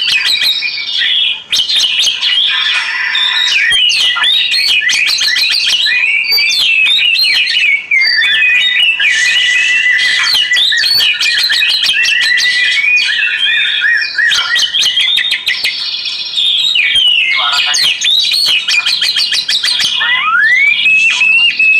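Oriental magpie-robin (kacer) singing without pause: a fast, varied run of chirps, trills and whistles mixed with sharp clicks, ending in a long rising whistle.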